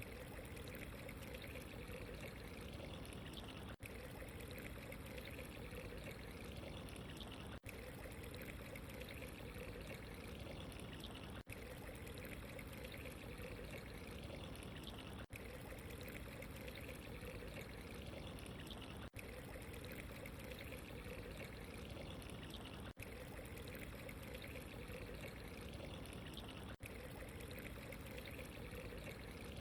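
Steady running, trickling water, faint and unchanging, with a very short dip in level about every four seconds.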